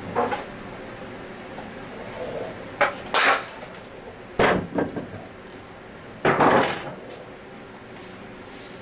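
Metal tools and parts clinking and clattering on a workbench in several separate knocks, with a longer clatter about six and a half seconds in.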